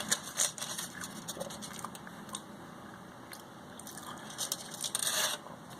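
A person chewing a mouthful of burrito, with scattered wet clicks and smacks of the mouth that grow busier near the end.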